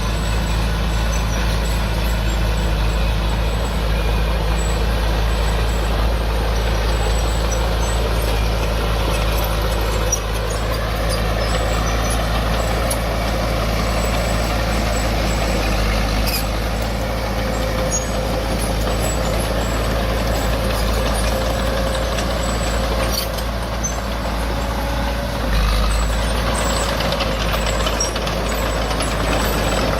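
Diesel engine of heavy earthmoving machinery running steadily under work. A harsher, noisier rattle joins about a third of the way in.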